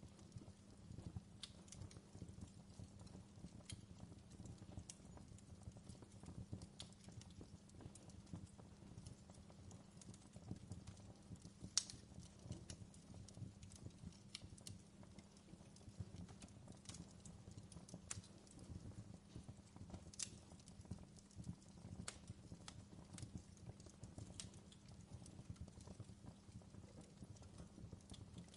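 Crackling fire in a fireplace: scattered sharp pops and snaps at irregular intervals over a low, steady rumble.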